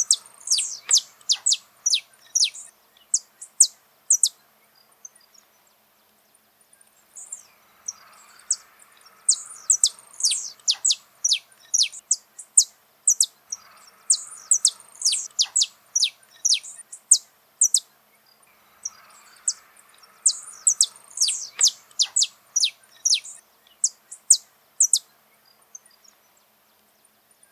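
Saffron finch singing: phrases of rapid, sharp, high chirps that sweep downward, each phrase several seconds long, repeated about four times with pauses of a second or two between them.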